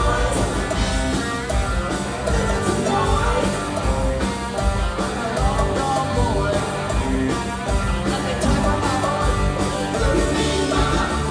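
Rock music with electric guitar, played loud and continuous.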